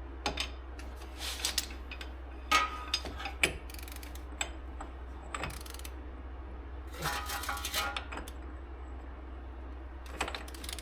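Metal hand tools being handled, a bar and torque wrench clinking and knocking together in a string of separate clanks and rattles, some with a brief metallic ring. A steady low hum runs underneath.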